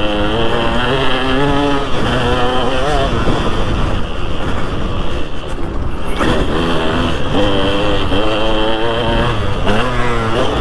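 2003 KTM 200 SX two-stroke motocross engine at full riding revs, its pitch climbing and dropping as the throttle is worked, easing off around the middle before pulling hard again.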